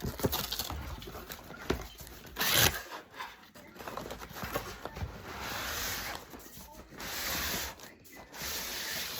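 Parcel packaging being torn open: one sharp loud rip about two and a half seconds in, then three longer ripping sounds in the second half.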